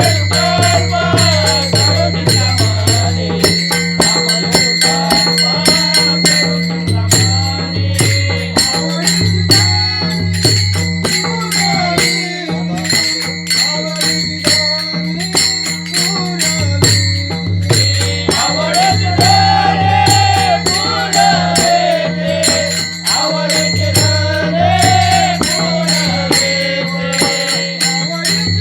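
A Marathi devotional abhang sung by a male voice over a steady low drone, with small hand cymbals keeping a fast, continuous rhythm.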